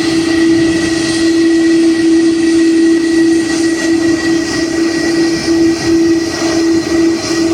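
Airbus A330-300's jet engines running with a steady low hum and a fainter high whine over a broad wash of engine noise.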